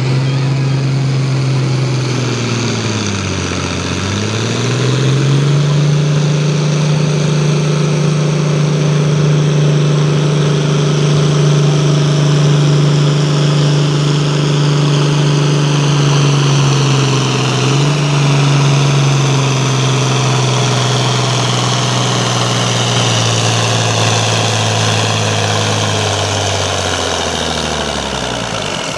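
Farm tractor's engine at full power pulling a weight-transfer sled down the track. Its pitch sags about three seconds in as the engine is pulled down, recovers and holds steady through most of the pull, then falls off near the end as the run ends.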